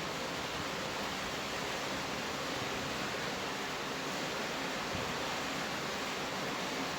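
Rain falling steadily: an even hiss with no separate drops standing out.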